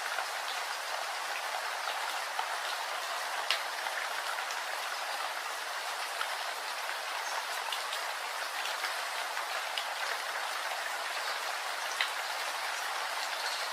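Steady rain: an even hiss with scattered sharper ticks of single drops striking close by.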